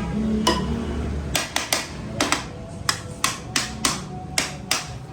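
Hammer blows on metal: about a dozen sharp strikes at an uneven pace of two or three a second, starting about a second and a half in, some leaving a short metallic ring. A low rumble comes before the strikes begin.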